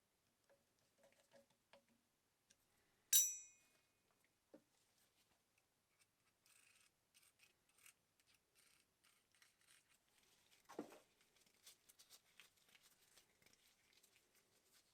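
Quiet handwork on small metal parts: one sharp metallic clink with a brief ring about three seconds in, then faint scraping and rapid light clicking, with a dull knock a little past the middle.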